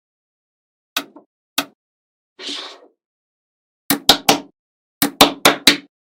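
Sharp knocks: two single ones, a short hiss, then two quick runs of about four knocks each.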